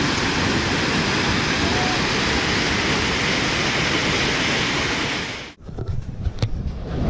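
Overflowing river in flood, its water rushing steadily, cutting off abruptly about five and a half seconds in. A low wind rumble on the microphone follows.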